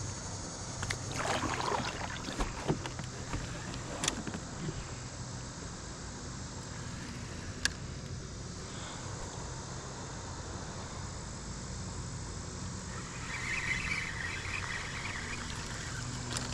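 Kayak being unstrapped and handled: scattered knocks and clicks over a low steady hum, with a short rushing sound near the end.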